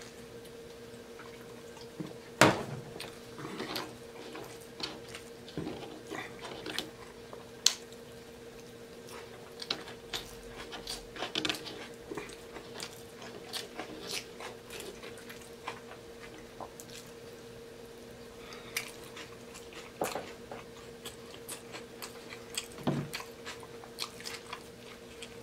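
Close-miked chewing and lip-smacking of a McDonald's burger: irregular wet clicks and smacks, the sharpest about two and a half seconds in, over a faint steady hum.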